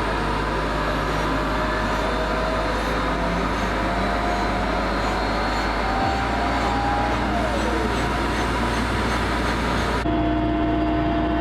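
Helicopter running: a loud, dense, steady rush with a whine slowly rising in pitch and one tone dropping away past the middle. About ten seconds in it cuts abruptly to a steadier sound with a couple of held tones.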